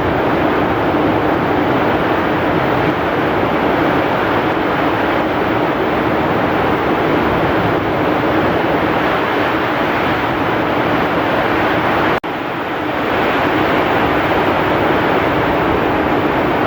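Heavy rain with strong wind, a dense steady rush of noise. It drops out for an instant about twelve seconds in, then comes straight back.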